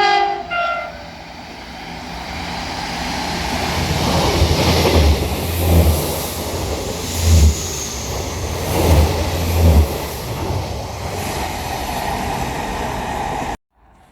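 A train sounds a short two-tone horn, then passes: a rumble that builds over several seconds and peaks with a series of heavy low thuds before the sound cuts off abruptly near the end.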